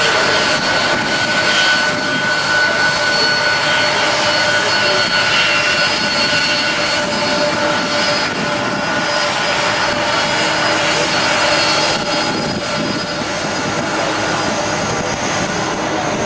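Jet airliner engines running loudly and steadily, a dense rush with several steady whining tones; a higher-pitched whine joins near the end.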